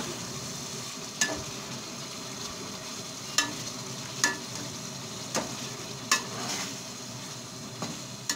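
Chicken pieces sizzling as they fry in spiced oil in an aluminium pot, stirred with a metal perforated spoon that clinks sharply against the pot about six times. This is the bhuna stage, browning the chicken in its masala before water goes in.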